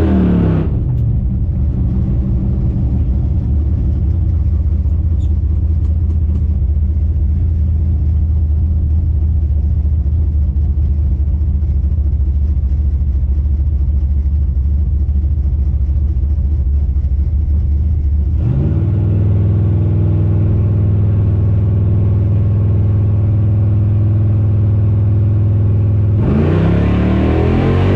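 Small-block Chevy V8 of a 1967 Chevy Nova drag car running at a steady speed. About two-thirds of the way through it steps up to a higher steady pitch, then near the end it revs with rising pitch.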